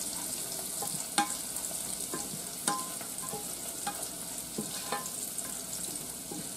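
Sausage, onions and garlic frying in a saucepan, with a steady sizzle. A slotted spoon scrapes and knocks against the pan every so often as the food is stirred.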